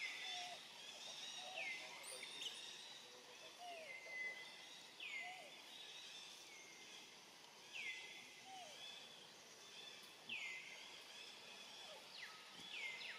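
A bird calling repeatedly and faintly: a short call falling in pitch, about every one and a half to two seconds, over low outdoor background noise.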